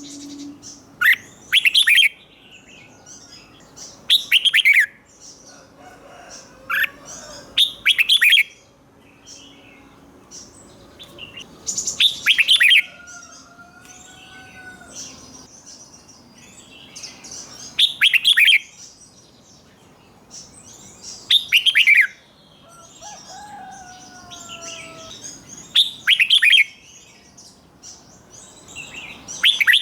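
Red-whiskered bulbul singing. Short loud phrases that fall in pitch come in quick doubled pairs every few seconds, with fainter chirps and whistles of other birds between them.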